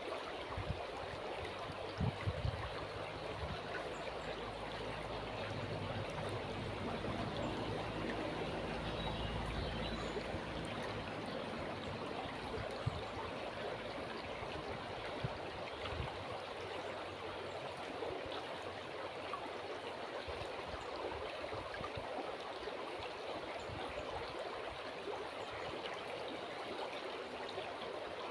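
River water flowing, a steady, even rushing and gurgling. A low rumble sits under it for the first half and fades out around the middle, and there are a few faint knocks near the start.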